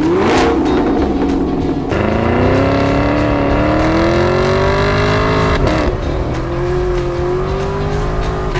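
2016 Chevrolet Camaro SS 6.2-litre V8 running through a freshly fitted Corsa Sport axle-back exhaust, revved or accelerated in long pulls. The pitch climbs steadily for a few seconds, drops briefly a little past the middle, then climbs again.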